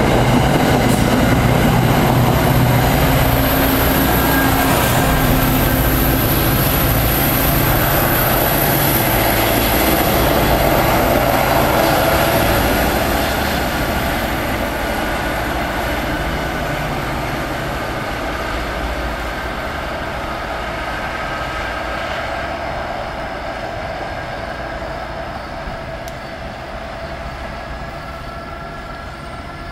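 Diesel commuter train running past and pulling away, a heavy rail rumble with a steady high-pitched whine over it, the whole sound fading steadily from about halfway through.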